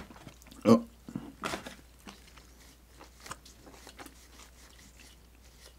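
A person chewing a mouthful of dumpling with lips closed, close to a lapel microphone: soft, scattered wet mouth clicks, with one brief hummed vocal sound under a second in.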